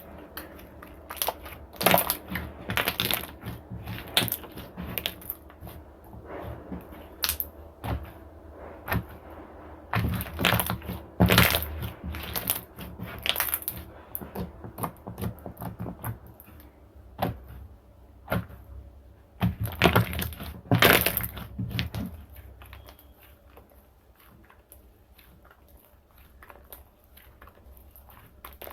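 Slime being squeezed and pressed by hand, making crackling, popping clicks in clusters. The clicks are loudest around ten to twelve seconds in and again about twenty seconds in, then quieter near the end.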